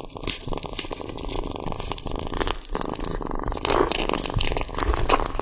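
A cat chewing and tearing at a raw steak, a quick irregular run of wet clicks, smacks and crunches.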